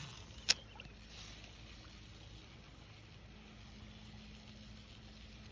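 Faint steady outdoor background noise, with one sharp click about half a second in.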